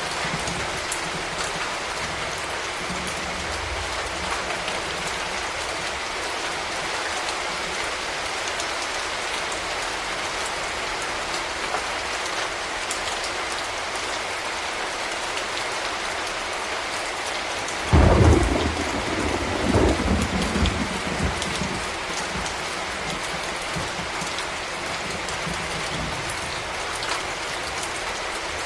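Steady rain falling, with a sudden thunderclap about two-thirds of the way through that rumbles on and dies away over a few seconds.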